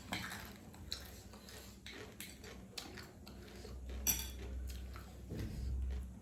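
Eating utensils clicking and clinking against a bowl in scattered light taps, with a sharper clink about four seconds in. A low rumble rises near the end.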